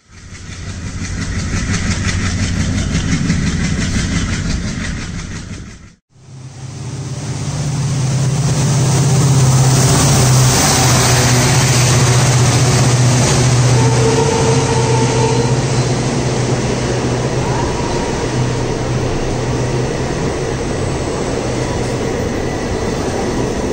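An express train running: a steady low engine drone over a broad rumble of wheels on the rails. The sound fades in and out over the first six seconds, breaks off abruptly, then returns and holds steady.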